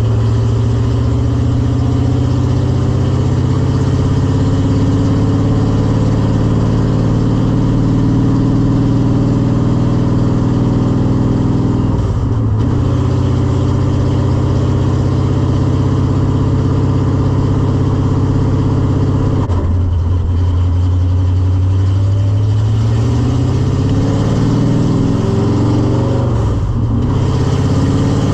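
1986 Mustang GT's modified 5.0 V8, with long-tube headers and a big cam, running loudly under way. Its note holds steady, broken by three brief dips, and climbs gradually after the second one.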